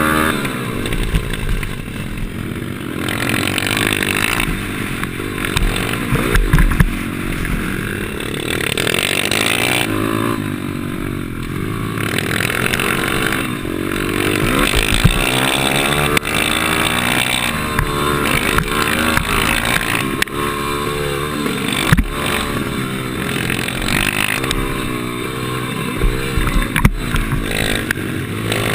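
Pit bike engine revving hard and dropping away over and over, its pitch rising and falling with throttle and gear changes through the lap, with a few sharp knocks along the way.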